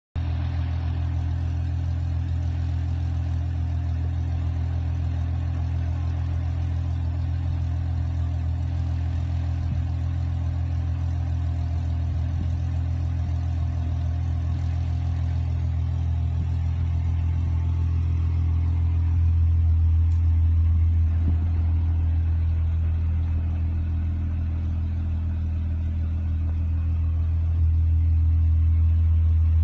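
Volkswagen Golf Mk3's VR6 six-cylinder engine idling steadily, a low, even exhaust drone with no revving. It grows a little louder twice, about two-thirds of the way through and again near the end.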